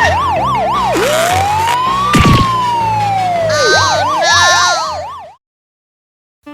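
Police-style siren sound effect: a fast up-and-down wail, then one slow rise and fall, then the fast wail again, over background music with a steady beat. A sharp hit sounds about two seconds in, and everything cuts off abruptly a little after five seconds.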